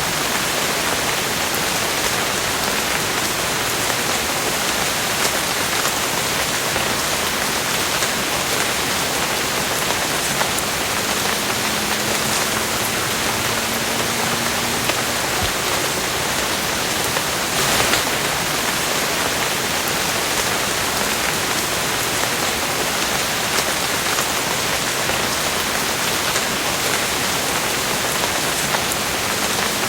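Steady rain falling, a dense even hiss of drops on a surface, with a brief louder spatter about 18 seconds in.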